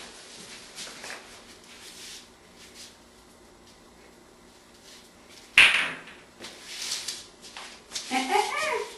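A mostly quiet room, then one sharp knock about five and a half seconds in, followed by softer shuffling noises and a short pitched vocal sound near the end.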